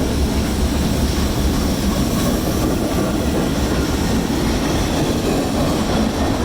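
CSX freight train rolling past, a steady rumble of wheels on rail that stays loud and even.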